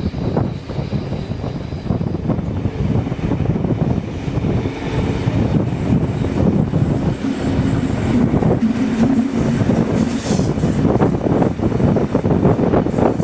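Train running on the rails: a continuous loud rumble of wheels and carriages, with a faint steady hum in the middle.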